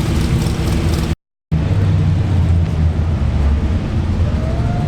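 Supercharged big-block Chevy V8 of a Bel Air drag car running at low speed with a choppy, uneven beat. The sound drops out completely for a moment about a second in.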